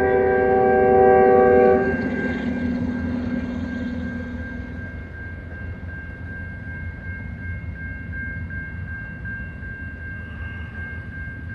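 Locomotive air horn sounding a multi-note chord that cuts off about two seconds in, over the low rumble of a passing train, which carries on with a steady high-pitched tone above it.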